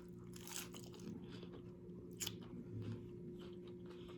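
A person biting and chewing crunchy food, faint, with a sharper crunch about half a second in and again about two seconds in, over a steady low hum.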